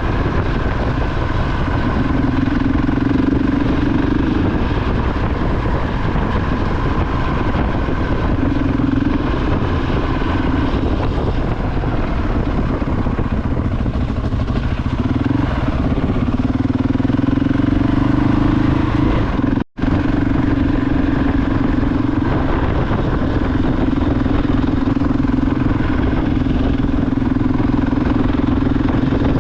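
KTM 690 Enduro R's single-cylinder engine running steadily under way, its pitch rising and falling a little with the throttle. The sound drops out for an instant about two-thirds of the way through.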